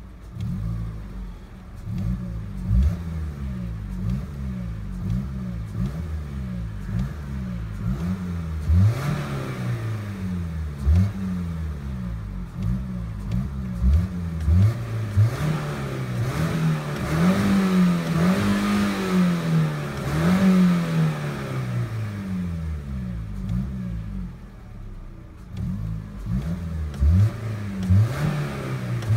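Ford Focus 1.4 four-cylinder petrol engine being revved over and over, heard from inside the cabin: quick blips of the throttle, each rising and falling, then a few longer, slower swells of revs in the middle, easing back toward idle a few seconds before the end before the blips start again.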